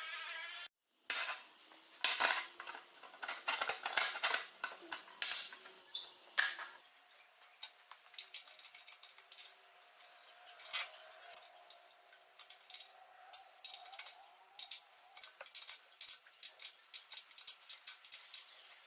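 Metal tools and lathe parts clicking, tapping and clinking during hand assembly work, in irregular short strokes that are busiest in the first several seconds. There is a sudden break about a second in.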